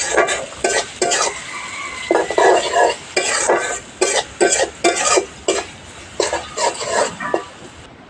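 Chopped onions frying in hot oil in a pan, sizzling steadily, while a spatula stirs them and scrapes the pan in quick repeated strokes. The stirring slows and fades near the end.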